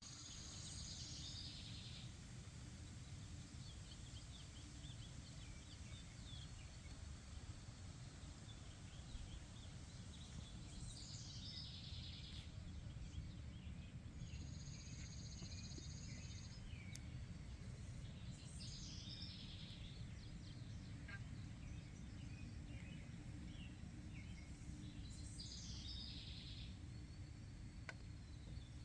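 Faint outdoor ambience with a steady low rumble, and a songbird singing a short high phrase four times, about every 7 to 8 seconds. A thin held high note sounds for about two seconds midway.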